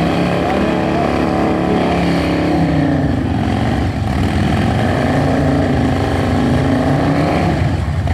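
Harley-Davidson V-twin engine held at high revs during a burnout, loud and continuous, its pitch dropping a few seconds in and then rising and falling again as the throttle is worked.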